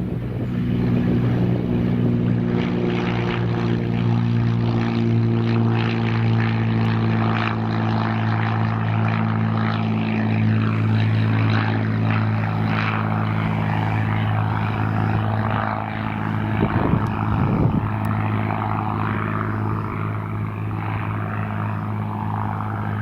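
Cessna 182RG's six-cylinder piston engine and propeller running steadily in flight, with an even drone. There is a brief dip and a short rough stretch about two-thirds of the way through.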